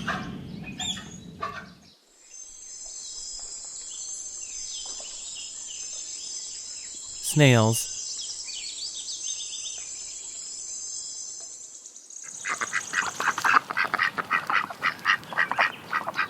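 Ducks quacking in a rapid, loud run of calls from about twelve seconds in. Before that, a quieter high, steady chirping background, broken once by a single spoken word.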